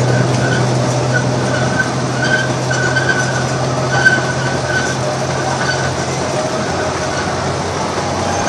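Running noise of a small amusement-park train heard from an open passenger car: a steady rumble and clatter, with a thin high squeal from the wheels coming and going and a low hum that fades out about six seconds in.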